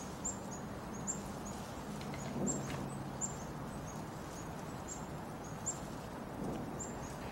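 A small bird chirping repeatedly, short high chirps about two or three a second, over a steady background rush of outdoor noise.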